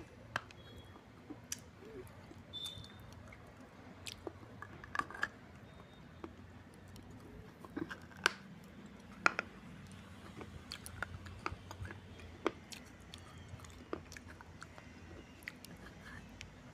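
A person biting and chewing pieces of a baked red clay water pot (surai) coated in red clay paste, with irregular sharp crunches as the dry clay breaks between the teeth. The loudest crunches come about eight and nine seconds in.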